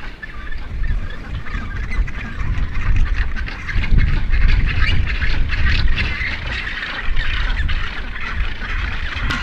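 Albatross colony calling: many overlapping squawks and honks over a steady low wind rumble.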